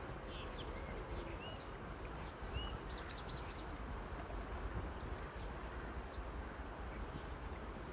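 Steady outdoor noise with a few short bird chirps, and a brief patch of clicks about three seconds in.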